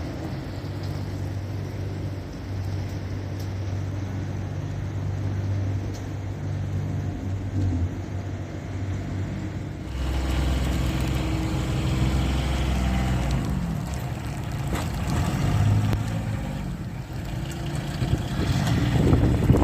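City street traffic: car engines running and passing with a steady low hum that shifts in pitch about halfway through. Wind starts buffeting the microphone near the end.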